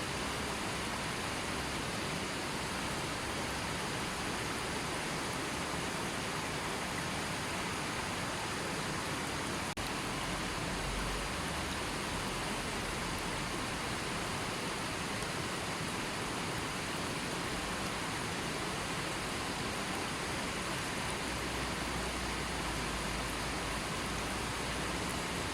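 Gently flowing river, a steady even rush of water with no birds or other sounds over it.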